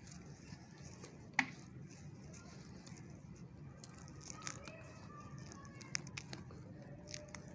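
Coriander plants being harvested by hand: scattered sharp snaps and crackles of stems and leaves, the loudest about a second and a half in.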